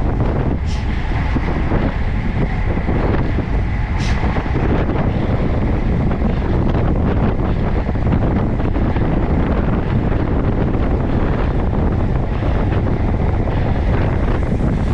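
Wind rushing over a bike-mounted camera's microphone while riding at road speed: a steady noise heaviest in the low end, with two brief high-pitched ticks early on.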